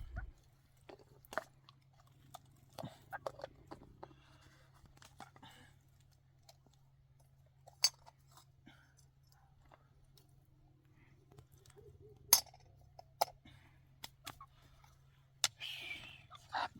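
Scattered light clicks and taps with a few sharp clinks, over a faint steady low hum; the sharpest clinks come about 8 and 12 seconds in.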